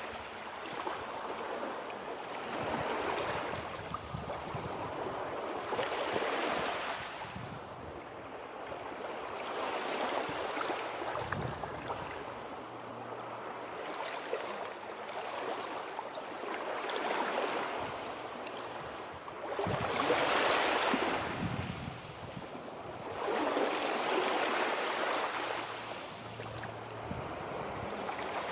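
Sea waves breaking and washing onto the shore, the surf swelling and falling back about every three to four seconds, with the largest wave about twenty seconds in.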